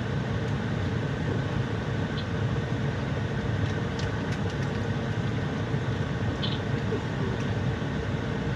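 Steady drone of a semi-truck's engine idling, heard inside the cab, with two faint light clicks.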